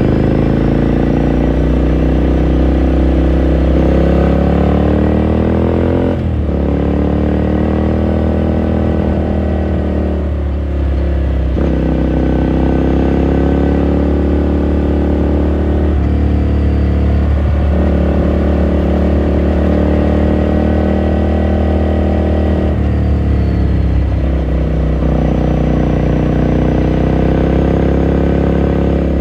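Ducati Scrambler Sixty2's air-cooled 399 cc L-twin running under way on a ride. The engine note climbs steadily, drops sharply several times and then climbs again, as happens at gear changes or when the throttle closes and reopens.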